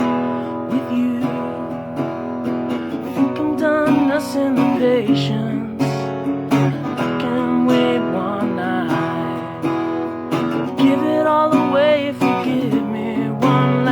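Strummed acoustic guitar playing an instrumental passage, with a melody line that bends in pitch at times over the chords.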